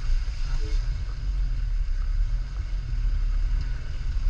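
Wind buffeting the microphone: a steady low rumble with a fluctuating level.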